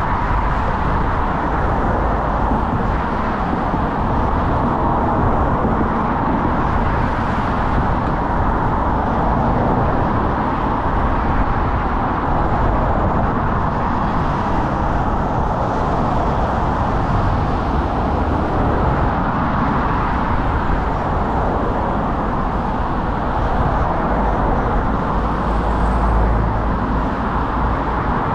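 Steady wind rush and low rumble on a GoPro action camera's microphone while riding an e-bike, with tyre and road noise.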